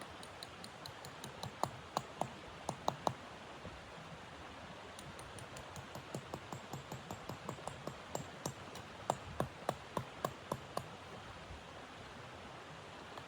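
A series of short, sharp, irregular clicks over a steady low hiss, bunching in two clusters with the loudest clicks about two seconds in and again near ten seconds.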